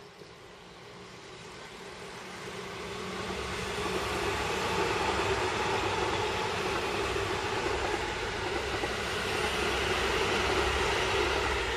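Electric commuter train on the Seibu Railway approaching and running past, growing louder over the first few seconds, then a steady loud rush of wheels on rail and running gear.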